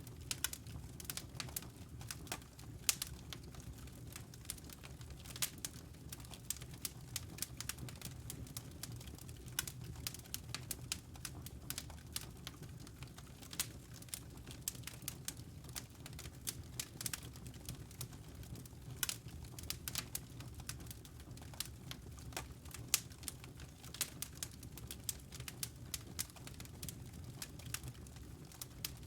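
Wood fire in a fireplace crackling: frequent, irregular sharp pops and snaps over a low, steady rumble.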